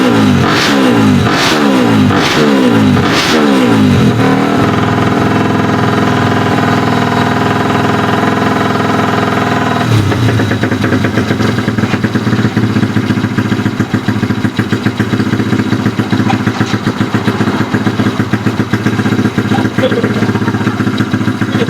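Bored-up Honda Astrea Grand race motorcycle's single-cylinder four-stroke engine blipped quickly again and again, each blip a rising rev, then held at high revs for about six seconds before dropping back to a lower steady idle.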